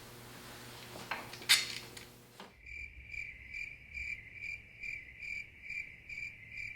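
A couple of sharp knocks, then cricket chirping about twice a second that starts and stops abruptly: a night-time sound effect marking the all-night job.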